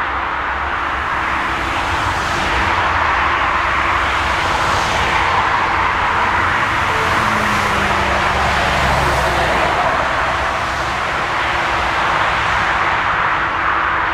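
Jet airliner engines running, a loud steady rush with faint steady tones beneath, swelling slightly in the middle and easing off near the end.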